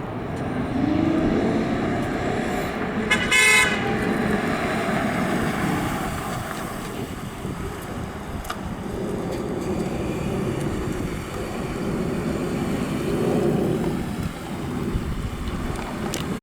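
The 2002 Chevrolet Monte Carlo SS's 3.8-litre V6 running as the car drives, with steady engine and road noise. A car horn gives one short toot about three seconds in.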